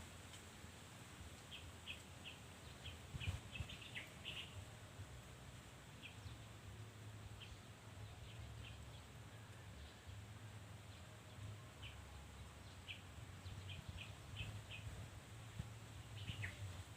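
Faint small-bird chirping: short, high call notes at irregular intervals, some in quick runs of three or four, over a steady low hum.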